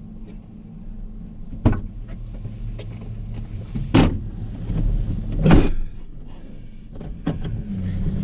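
Vehicle engine idling steadily, with four sharp bangs spread through it, the loudest about five and a half seconds in.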